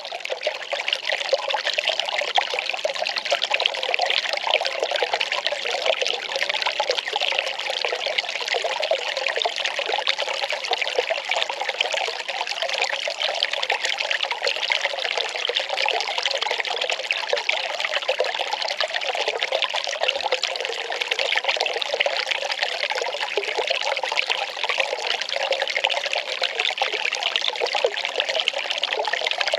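Well water pouring and trickling steadily, a constant splashing flow.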